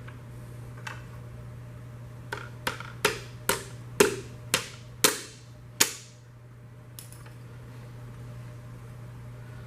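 About eight sharp, ringing taps, roughly two a second, knocking a piston and connecting rod down out of its cylinder bore in a 1950 Mercury flathead V8, with the rod studs covered by journal protectors. A steady low hum runs underneath.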